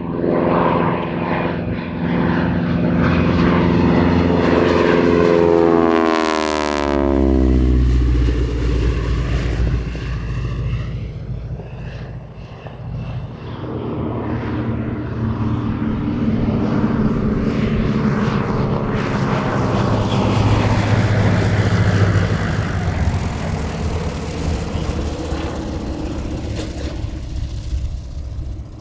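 Piston-engine propeller planes flying past low. An engine note swells, then drops sharply in pitch as a plane passes close about six seconds in. Engine sound builds again in the second half as another pass comes through.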